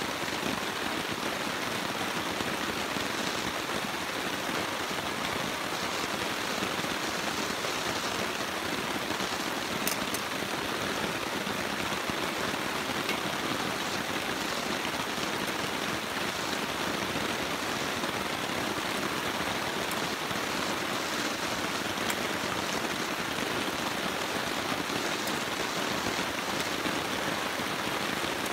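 Steady rain falling, an even hiss with a few light ticks of drops.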